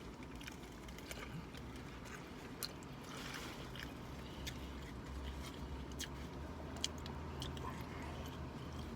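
Someone chewing a mouthful of burger, with soft wet mouth sounds and scattered small clicks, over a low steady hum.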